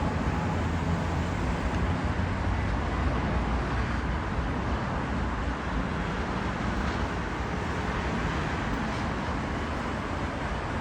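Airbus A321 jet engines at takeoff power, a steady deep roar that eases slightly near the end.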